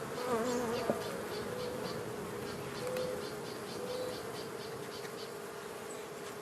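Honey bees buzzing around an open hive: a steady hum, with single bees' buzzes rising and falling in pitch as they fly close past the microphone, most clearly in the first second and again about three and four seconds in.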